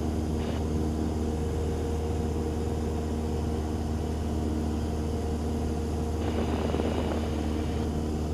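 Cessna 172's piston engine and propeller droning steadily in cruise flight, a constant low hum with an even engine note above it.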